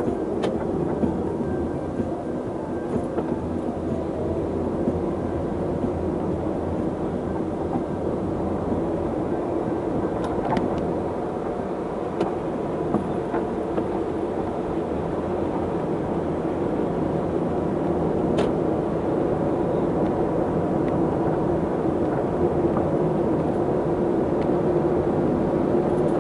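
Steady rumble of a vehicle in motion, with a few faint steady tones and occasional light ticks, holding level throughout.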